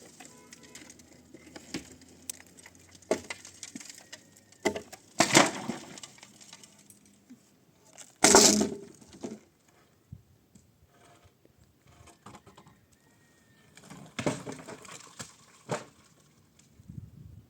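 Irregular knocks, clicks and clatter of objects being handled, with two loud crashes about five and eight seconds in and another burst of knocking near the end.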